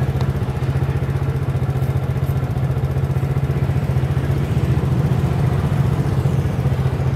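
Small motorcycle engine idling steadily, with an even, fast low pulse.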